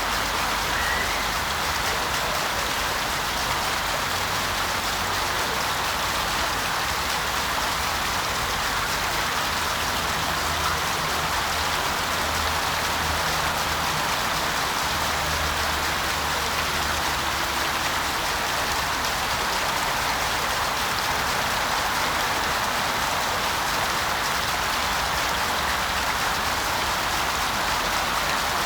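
Water from a three-tier garden waterfall splashing steadily into a shallow pond, an even rain-like patter.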